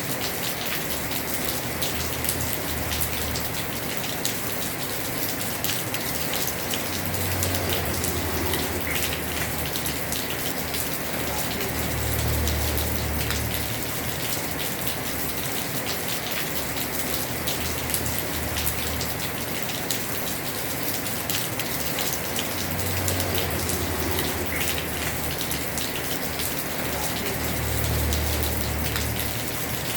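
Heavy rain falling steadily on a house roof, a dense even hiss with the patter of individual drops. A low rumble swells and fades several times.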